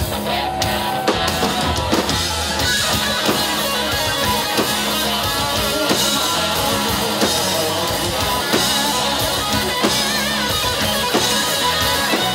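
Live country-rock band playing an instrumental passage: electric guitar over a drum kit keeping a steady beat.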